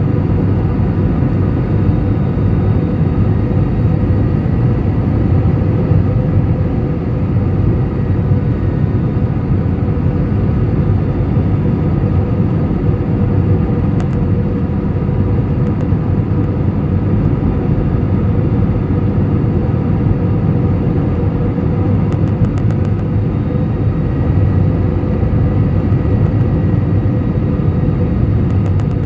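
Steady jet airliner cabin noise heard from inside the cabin: a continuous low rumble of engines and airflow with a faint steady hum running through it.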